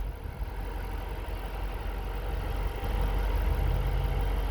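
2010 Dodge Challenger SRT-8's 6.1-litre HEMI V8 idling steadily, its low hum getting a little louder about three seconds in.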